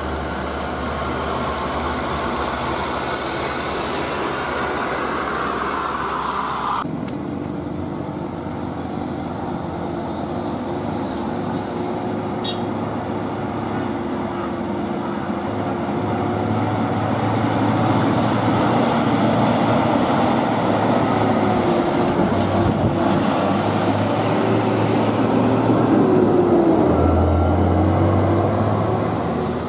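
Heavy diesel truck on the move: steady engine drone and road noise. The sound changes abruptly about seven seconds in, then continues as a steady drone.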